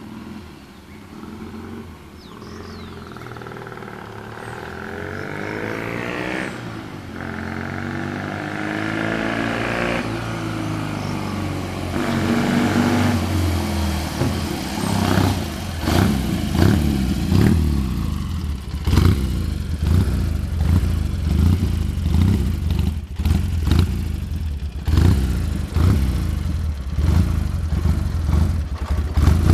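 1956 BSA Golden Flash's 650 cc parallel-twin engine approaching and growing steadily louder, its note rising and dropping several times as it goes up through the gears, then running loud and close with a pulsing beat for the second half.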